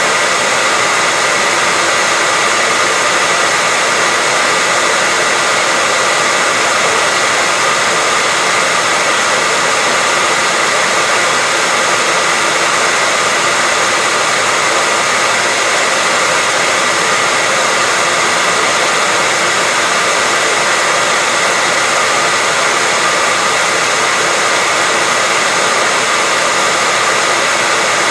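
Hairdryer running, a steady, even rush of blown air with a faint whine from the motor that does not change.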